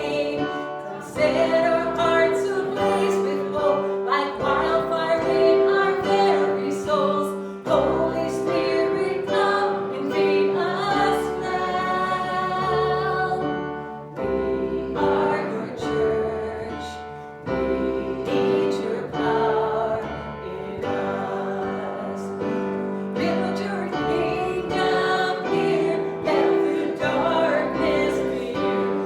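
Voices singing a worship song with piano accompaniment, in phrases of long held notes.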